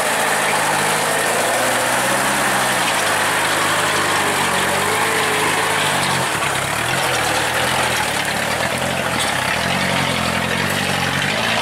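Truck engine running steadily, its pitch rising and falling as the engine speed changes, over a constant rushing noise.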